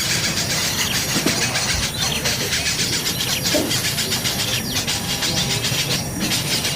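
Nestling birds begging for food, a dense unbroken high chatter of rapid calls.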